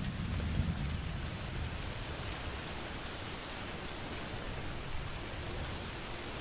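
Steady heavy rain hiss, with a low roll of thunder swelling in the first second and fading away.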